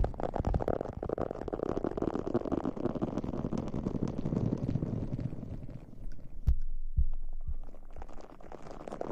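Close-miked crackling rustle against the microphone, dense and continuous, with two soft low thumps a little after the middle.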